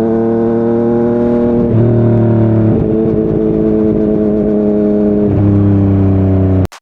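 Yamaha MT-09 three-cylinder engine through a Yoshimura R55 slip-on exhaust, running under steady throttle at cruising speed, its pitch rising gently and dropping slightly twice, about two seconds in and again near the end, as if shifting up. The sound cuts off suddenly just before the end.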